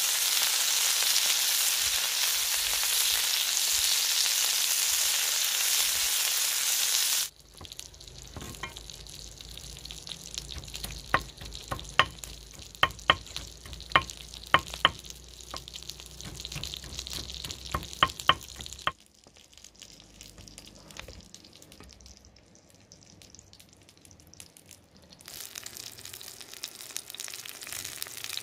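Skewered coconut worms (palm weevil larvae) sizzling loudly and steadily on a fire-heated stone slab. After about seven seconds the sizzle drops away, and a blade chops about a dozen times in quick strokes on a wooden surface. Near the end a softer sizzle returns.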